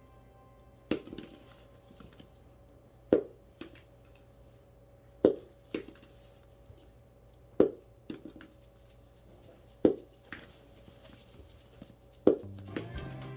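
Rubber bouncy ball bouncing: six sharp hits, about two seconds apart, each followed by a few quicker, smaller rebounds.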